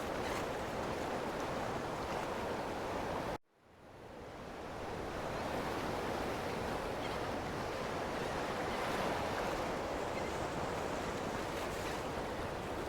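Ocean waves washing in a steady wash of surf. About three and a half seconds in the sound cuts out abruptly and then fades back up over a second or two, an edit or loop join in the recording.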